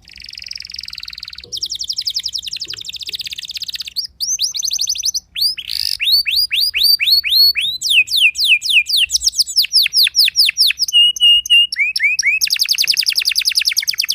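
Domestic canary singing a long, loud song of fast trills. Each trill is a quick run of identical high chirps, and the bird switches to a new trill every second or two.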